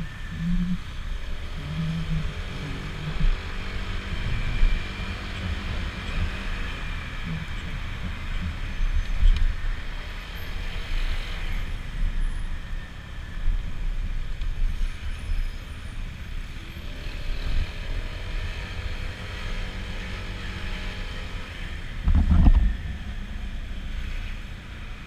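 Wind rushing over the microphone of a moving Honda PCX scooter, with engine and traffic sounds beneath it. One loud thump about three-quarters of the way through.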